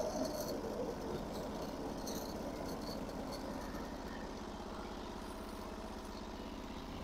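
Engine of a Norwood HD36 portable bandsaw mill running steadily.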